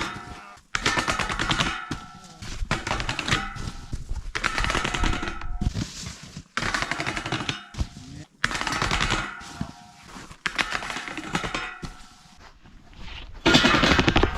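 Snowboards sliding across a stepped steel waterfall rail in a series of short runs, each about a second of fast clattering with a metallic ring, starting and stopping abruptly.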